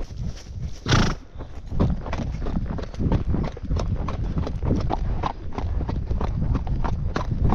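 Irregular clattering knocks, several a second, over a steady low rumble, with one loud knock about a second in.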